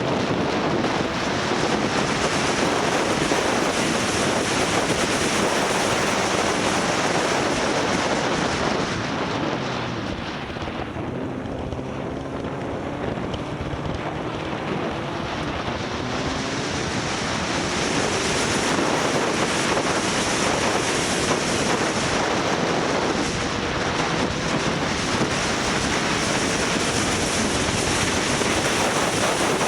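Heavy wind rushing over the microphone of a moving motorcycle, with the engine faintly audible underneath, its pitch rising and falling with the throttle. The wind eases for a few seconds about a third of the way in, then builds again.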